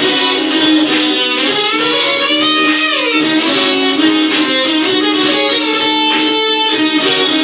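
Electric guitar playing a blues tune: quick picked single notes and held notes, with a falling run about three seconds in.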